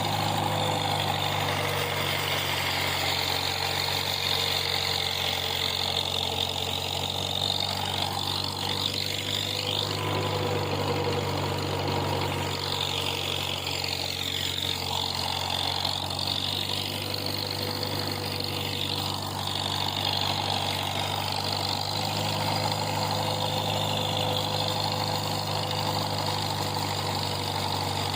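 Farmall M tractor's four-cylinder engine running at a steady speed during a ride.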